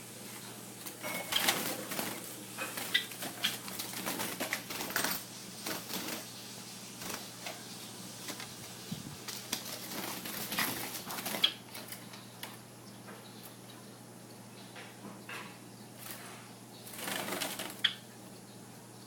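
A small bird moving about: irregular bursts of fluttering, scratching and clicking with a few short chirps, busiest over the first ten seconds and once more near the end.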